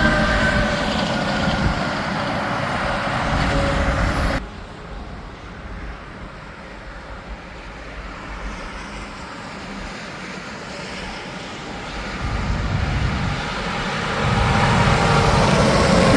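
Highway traffic with semi trucks passing: a loud engine drone and tyre noise that cuts off suddenly about four seconds in. Quieter traffic noise follows and swells again near the end as another truck approaches and passes.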